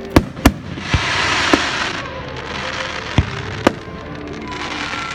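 Fireworks going off: six sharp bangs of bursting shells, four in the first second and a half and two more a little past three seconds in, over a steady crackling hiss.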